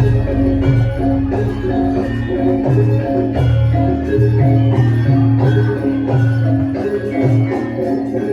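Javanese gamelan music: metallophones striking a repeating melodic pattern of pitched notes over a heavy low bass.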